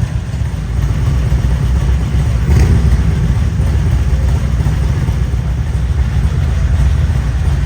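Motorcycle engines running, a loud steady low rumble, with a brief swell about two and a half seconds in.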